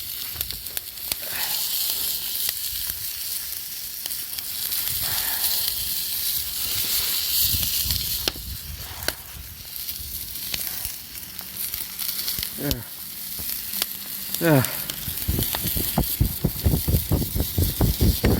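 Food sizzling in a pan over a campfire, a steady hiss with scattered wood crackles. Near the end there are two short falling squeaks, then a fast regular run of knocks or scrapes.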